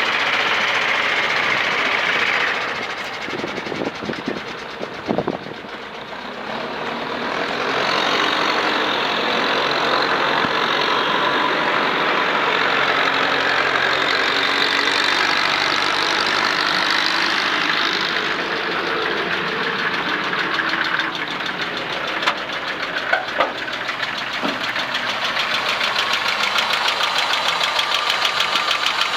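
1968 Chevy C50 grain truck engine running, quieter for a few seconds early on and then louder again and steady, with an even rapid firing pulse near the end. A few short knocks are heard around five seconds in and again after twenty seconds.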